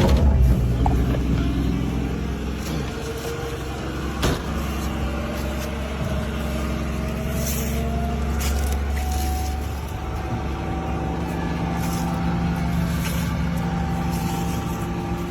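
Classic car's engine, just started, running steadily; the owner says it has run well since he fitted a new carburetor. There is a single sharp click about four seconds in, and a faint whine rises in pitch partway through, then holds.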